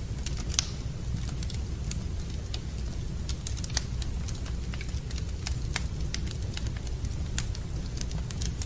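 Wood fire burning in a fireplace, crackling with irregular sharp pops over a steady low rumble. Two pops stand out louder, one just after the start and one near four seconds.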